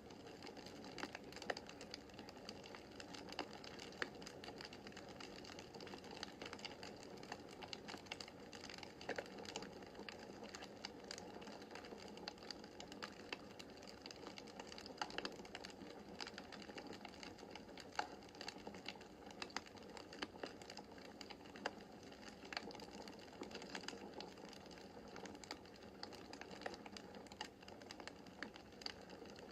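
Wood fire crackling in a fireplace: a dense, irregular run of small crackles with sharper pops every few seconds, over a soft steady hiss of the flames.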